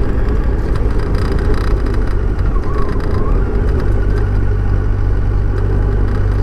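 Kawasaki ZZR1400's inline-four engine running under way, with a steady rush of wind and road noise over it. The low end grows steadier and fuller from about four seconds in.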